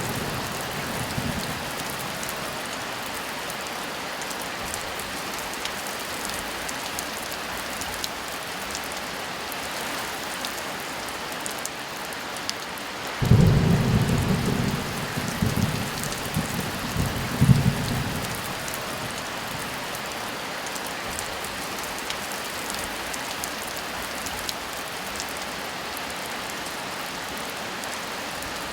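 Steady heavy rain. The last of a thunder rumble fades in the first second or so, and a new roll of thunder breaks in suddenly about halfway through and rumbles for about five seconds before the rain carries on alone.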